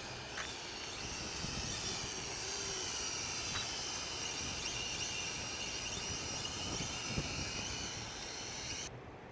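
Mould King Super X 33040 quadcopter in flight, its motors and propellers whining as several steady high tones that drift slightly in pitch. Wind rumbles on the microphone, and the whine drops away near the end.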